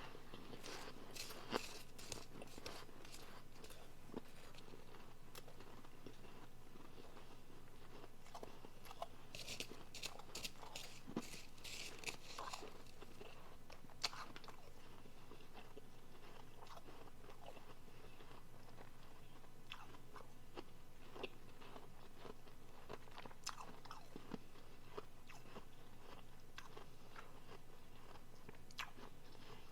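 Close-up bites and chewing of soft refrozen powdery blender ice, a soft crunching with scattered sharp crackles. The bites cluster in bursts a couple of seconds in and again around ten seconds in, with sparser chewing later.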